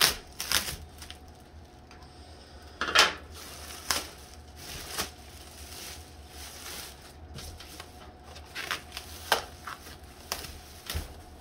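Plastic and cardboard packaging being handled: crinkling and rustling, broken by several sharp knocks, the loudest about three seconds in.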